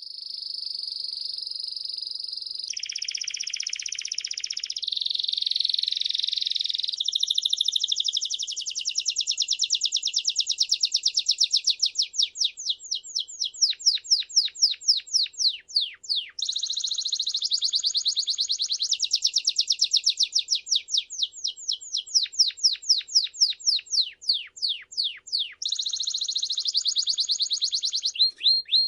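Songbird singing a long, fast, high trill; at times the trill loosens into separate quick downward-sweeping notes, several a second.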